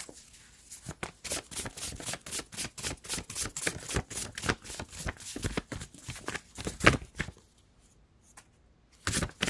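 A tarot deck being shuffled by hand: a quick, dense run of card clicks for about six seconds, a pause, then another short burst of shuffling near the end.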